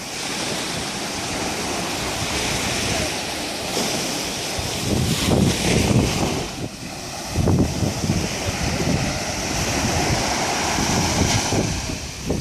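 Sea waves washing onto a sandy beach, with wind buffeting the microphone in low rumbling gusts, strongest about five to six seconds in and again at about seven and a half seconds.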